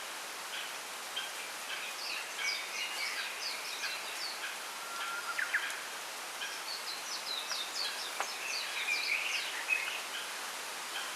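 Small songbirds chirping and twittering in two bouts of quick, high notes over a steady rustling hiss of bamboo in the wind.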